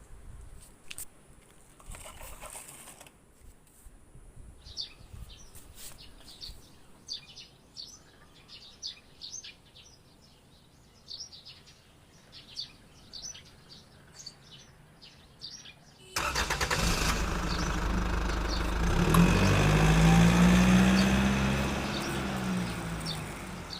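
Faint bird chirps for most of the stretch. About two-thirds of the way through, a loud engine-like sound starts suddenly and runs on, its hum rising and then falling in pitch.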